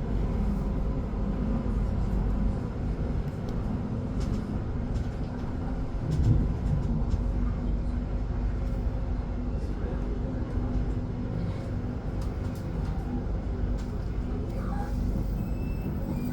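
Electric commuter train running along the track, heard from inside the carriage: a steady rumble with a faint hum, and one louder low thump about six seconds in.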